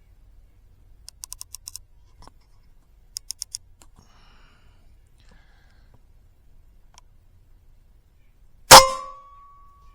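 A few light mechanical clicks as the Evanix Rainstorm SL .22 PCP air rifle is readied, then near the end a single loud, sharp air rifle shot followed by a ringing tone that fades over about a second.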